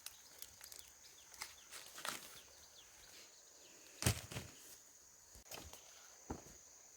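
Dry corn plants being handled: scattered rustles and crackles, with one louder snap about four seconds in, over a steady faint high-pitched hum.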